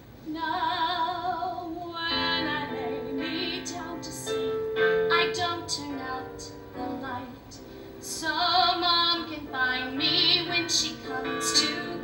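A woman singing a show tune with wide vibrato over instrumental accompaniment, which comes in about two seconds in.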